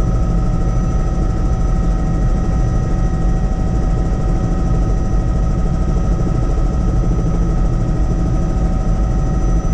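Helicopter in flight, heard from inside the cabin: a steady, loud rotor and engine rumble with a constant high whine over it.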